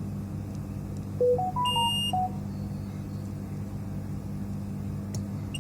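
A short high piezo beep from a digital multimeter about two seconds in, during a check of the bridge rectifier, mixed with a brief run of lower stepped tones that rise and fall. A steady low hum runs underneath.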